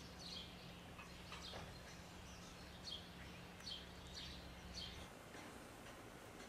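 Faint bird chirps: several short, falling calls, a second or so apart, over a low steady hum that cuts off about five seconds in.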